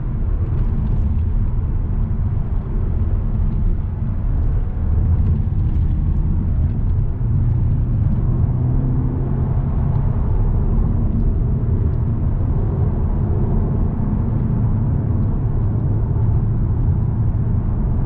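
Volkswagen Golf R Mk7's turbocharged four-cylinder engine running steadily under way, with road and tyre rumble.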